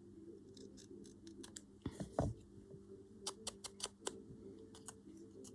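Scissors snipping paper in a run of short cuts, with a louder cut about two seconds in, over a low steady hum.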